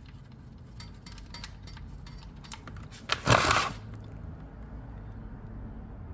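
Hands working on the motorcycle's engine: scattered light clicks of parts being handled, then a short, loud crinkling rustle about three seconds in, over a low steady hum.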